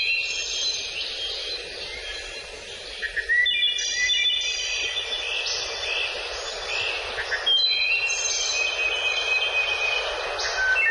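Songbirds singing: three long phrases of high, quick whistled notes, one starting about every four seconds, over a steady background hiss.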